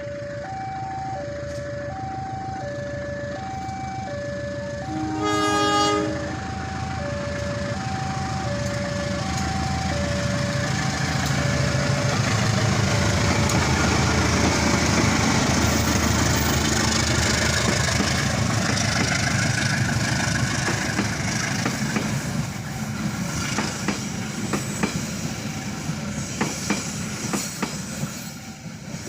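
Argo Anjasmoro passenger train passing: a two-tone warning signal alternates steadily, a short loud horn blast sounds about five seconds in, then the train's rumble builds and runs on, with wheels clicking over rail joints near the end.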